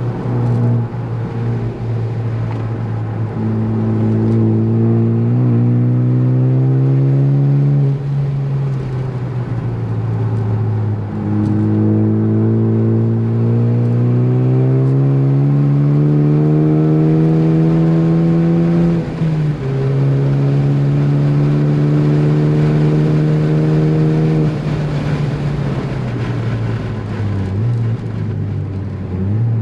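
Ford Focus ST's turbocharged four-cylinder engine pulling hard on track, its pitch climbing through the revs. It drops sharply at upshifts about five seconds in and again near nineteen seconds, and falls away twice as the driver lifts off, around eight seconds and again near the end.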